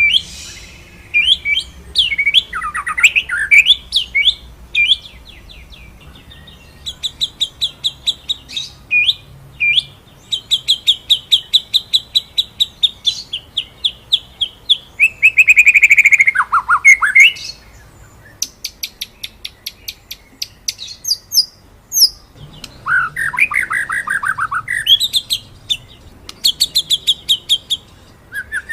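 White-rumped shama (murai batu) singing: fast rolling trills of repeated high notes, broken by louder sweeping phrases that swoop down in pitch, the loudest about halfway through.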